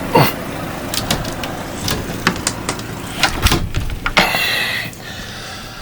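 Blizzard wind blowing hard, a rushing noise that swells in a gust about four seconds in, with a scatter of short clicks and knocks.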